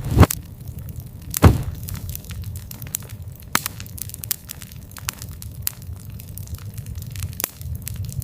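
Campfire crackling and popping over a steady low rumble, with many small sharp cracks. Two loud pops come in the first two seconds.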